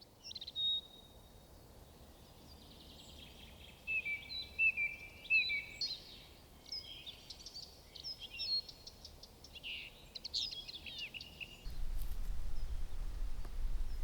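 Outdoor birdsong: a string of short chirps and quick trills over a faint background hiss. About twelve seconds in the birds stop abruptly and a louder low rumble takes over, like wind buffeting the microphone.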